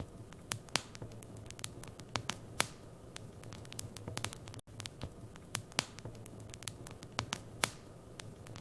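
Wood fire burning in a fireplace, crackling with irregular sharp pops and snaps over a soft steady hiss and a low hum. The sound cuts out for an instant about halfway through.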